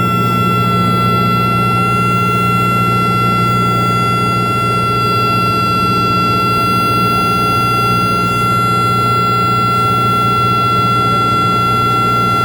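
Cessna 172's piston engine and propeller running steadily, heard inside the cockpit, with a steady high whine over the engine drone.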